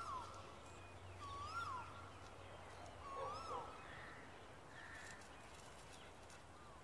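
A bird calling, a short note that rises and then drops, repeated three times about a second and a half apart, then stopping. It is faint.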